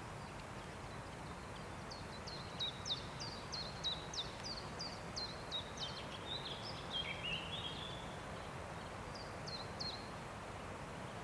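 Forest ambience: a steady rush of wind with a small songbird calling a quick run of short, high, downward-slurred notes, about three a second, from about two seconds in, then a lower warble, and a few more such notes near the end.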